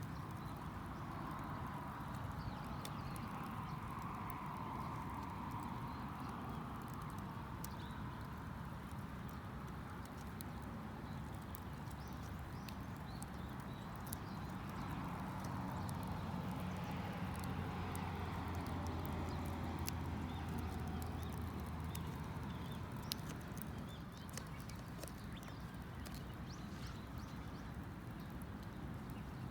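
Wood campfire crackling, with frequent irregular sharp pops and snaps over a steady low hiss.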